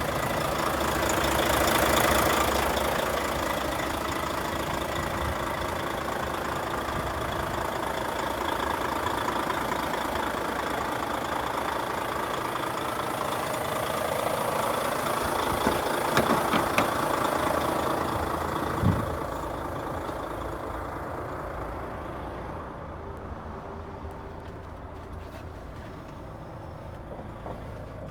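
Volvo FH4 500 truck's 13-litre six-cylinder diesel running at idle, swelling a little twice and fading in the last third, with a few clicks. A sharp knock at the very end.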